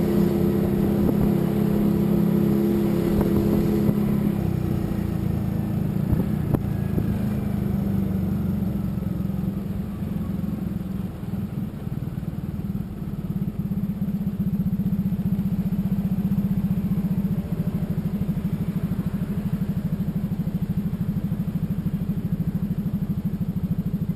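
Motorcycle engine running, its note falling in the first few seconds, then settling into a steady, evenly pulsing idle for the second half.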